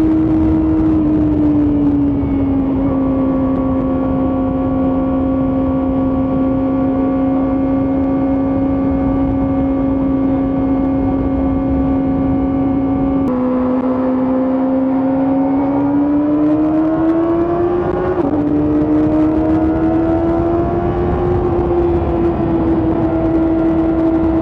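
Kawasaki ZX-4RR's four-cylinder engine running at high revs under way, with a steady high-pitched exhaust note. About halfway through and again about three-quarters through, the pitch drops suddenly and then climbs again: upshifts.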